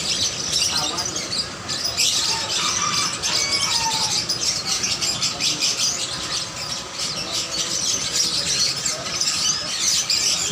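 Many caged birds chirping and squawking at once, a dense, unbroken chatter of short high calls.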